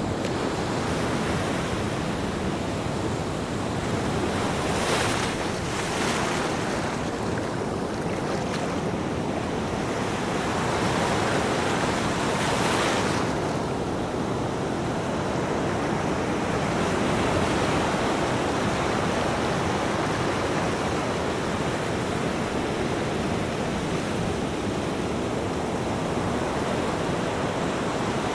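Ocean waves breaking and washing on a beach: a continuous rush of surf that swells and hisses louder several times as waves break.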